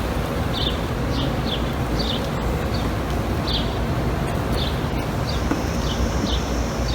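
A bird chirping over and over, short falling chirps about twice a second, over a steady low hum. A thin high hiss joins about five seconds in.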